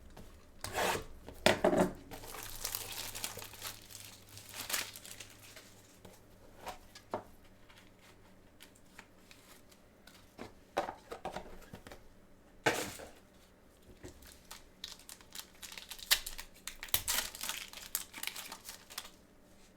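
Trading-card packaging being torn open and its plastic wrapping crinkled and handled, in irregular bursts of tearing and rustling, the loudest near the start and again near the end.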